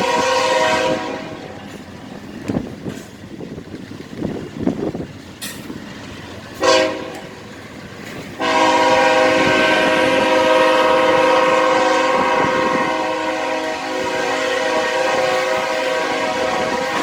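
Freight locomotive's multi-chime air horn sounding the crossing signal: a blast that ends about a second in, a short blast after about six seconds, then a long blast held to the end. In between, the train's wheels clack and knock over the rail joints.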